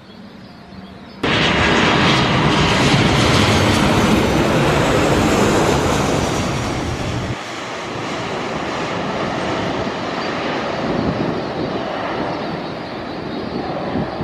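Airliner's engines close by, a loud steady rushing noise with a faint high whine that starts abruptly about a second in and eases somewhat about halfway through.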